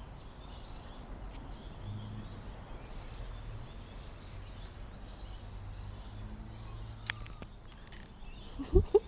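Outdoor ambience with small birds chirping here and there and a low hum that comes and goes. A brief loud sound comes near the end.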